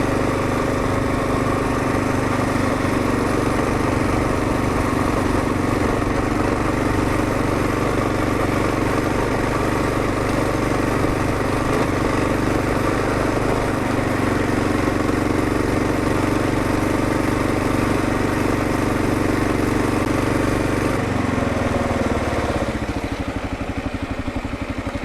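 2022 Kawasaki KLR650's single-cylinder four-stroke engine running steadily under way. Near the end the revs drop, settling into a slower, lumpy beat as the bike eases off.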